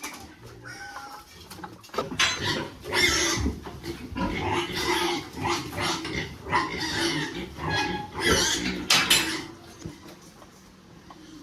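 Pigs grunting and squealing: a run of loud, noisy calls starts about two seconds in and stops shortly before the end.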